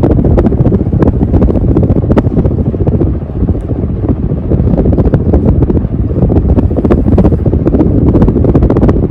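Airflow from a 52-inch Kichler Canfield ceiling fan running on high, blowing straight onto the microphone: loud, low, gusting wind buffeting.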